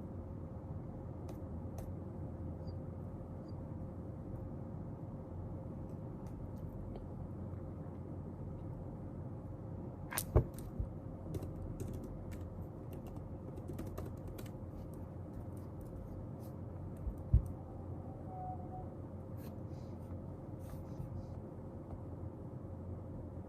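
Scattered light clicks and taps from someone working at a study desk, with two sharper knocks about ten and seventeen seconds in, over a steady low background hum.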